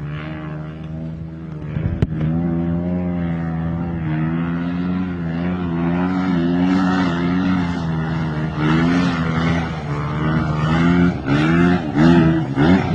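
A motor vehicle's engine running steadily, its pitch wavering a little, then revved in several quick blips near the end. A sharp click sounds about two seconds in.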